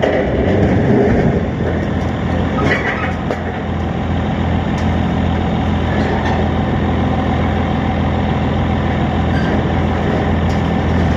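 Heavy diesel engine running at a steady idle, with a few faint knocks over it.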